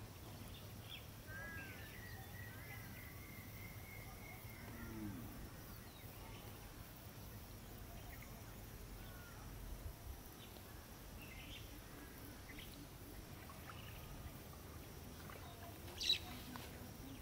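Quiet outdoor ambience with a low steady rumble and scattered faint bird calls and chirps; one short, louder high-pitched sound near the end.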